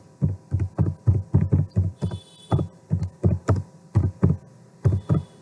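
Typing on a computer keyboard: a quick, uneven run of dull keystrokes, several a second, with a short pause about two seconds in.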